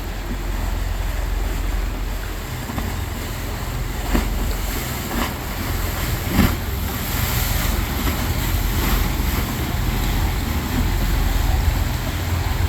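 Wind buffeting the microphone with a steady low rumble, over the wash of choppy canal water and passing motorboats. A few brief knocks come about four to six and a half seconds in.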